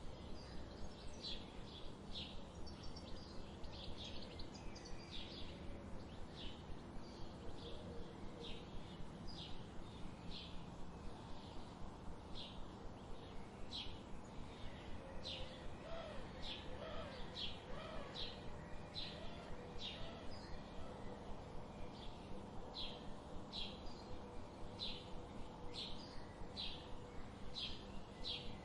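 Wild birds calling, led by one bird giving an even, steady series of short high chirps, with a few lower warbling notes in the middle, over a faint background hiss.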